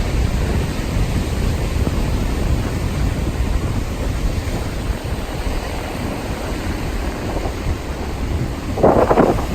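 Strong storm wind buffeting the microphone, a steady low rumbling rush, with a brief louder gust of noise near the end.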